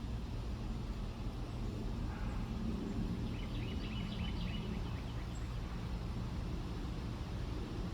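Outdoor background with a steady low rumble, and a small bird chirping a quick series of short high notes about three to four seconds in.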